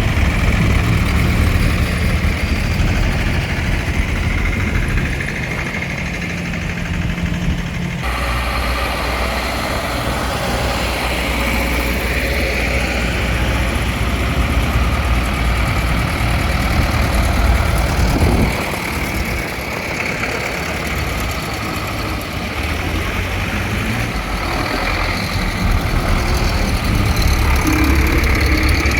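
Tractor engines running steadily in a low rumble. The engine sound changes abruptly about 8 seconds in and again around 18 seconds.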